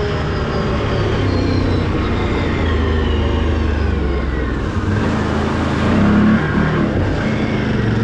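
Can-Am off-road vehicle's engine running steadily while it drives, with a high whine that falls in pitch over the first few seconds and a brief surge in level about six seconds in.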